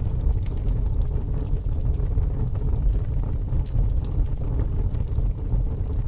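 Fire burning: a steady low rush of flame, with scattered sharp crackles and pops throughout.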